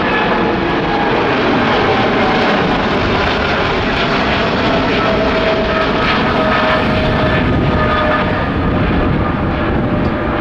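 Boeing 777-300ER's twin GE90 turbofans at take-off thrust: a loud, steady jet roar with whining tones that slowly fall in pitch as the airliner passes.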